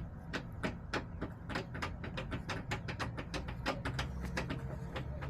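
Chickens pecking at a hard surface: quick, irregular sharp taps, several a second, over a low steady rumble.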